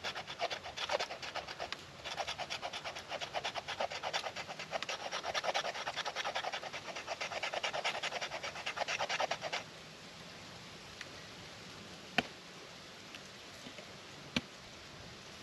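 The spine of a knife scraped in fast, even strokes to shave off fine dust for fire tinder; the scraping stops a little past halfway, and two sharp clicks follow.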